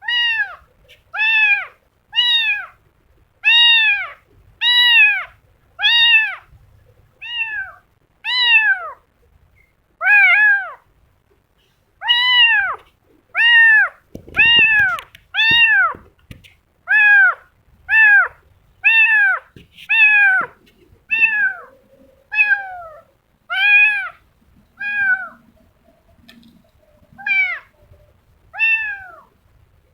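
A kitten meowing over and over, about once a second, each meow a short high call that rises and falls in pitch, with brief pauses now and then. A faint low bump sounds about halfway through.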